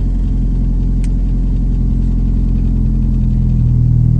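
1997 Mitsubishi Eclipse GSX's turbocharged four-cylinder idling steadily at a raised idle in park, the fault of its idle speed control. There is a single click about a second in, and near the end the engine note shifts as a load is added and the idle comes down.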